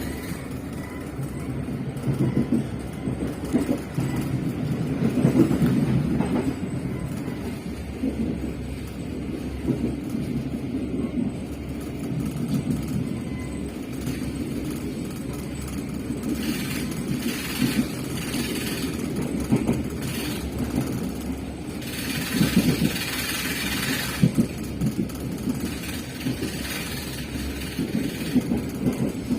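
Passenger train running on the rails: a steady low rumble with irregular knocking of the wheels. There are two stretches of louder hiss, one past the middle and one a few seconds later.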